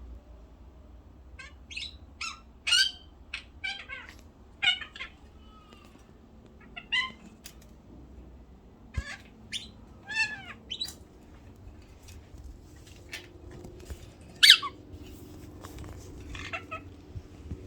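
Pet birds calling with short, high squawks and chirps at irregular intervals, about fifteen calls in all, the loudest one late on.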